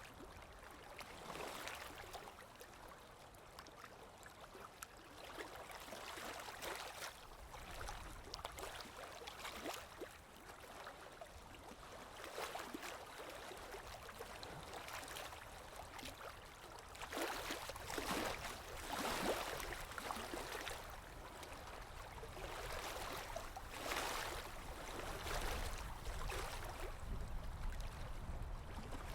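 Small waves lapping and splashing at the water's edge in irregular surges, a few louder washes among them.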